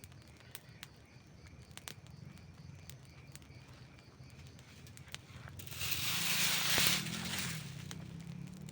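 Campfire crackling, with scattered sharp pops over a low steady rumble. A little past halfway a louder rushing hiss swells for about two seconds, then eases.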